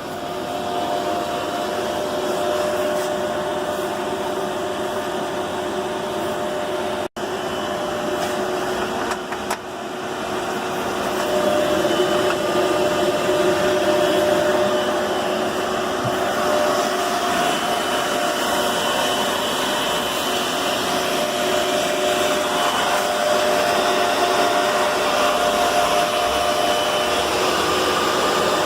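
Steady whirring hum of running machinery, with several steady tones in it; it drops out for an instant about seven seconds in and gets louder about eleven seconds in.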